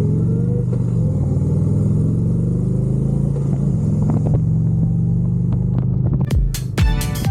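Motorcycle engine running steadily while riding, its pitch shifting slightly about a second and again nearly four seconds in. About six seconds in, electronic music with a sharp, even beat cuts in over it.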